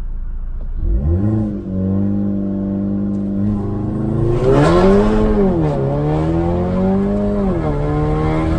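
Turbocharged four-cylinder engine of a VW Golf Alltrack with an APR IS20 turbo and AWE Touring exhaust, revving. It picks up about a second in and holds steady, rises higher and falls back around the middle, then climbs again and drops back near the end to a steady held speed.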